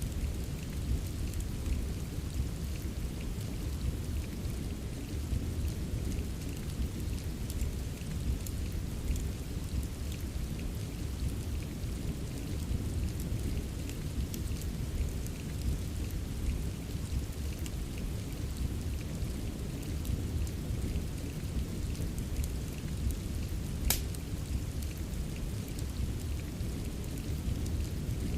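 Steady rain mixed with a crackling wood fire: an even hiss over a deep, constant rumble, dotted with small crackles, and one sharper pop near the end.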